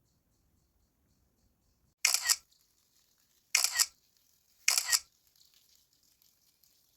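Camera shutter fired three times over about three seconds, each release a quick double click.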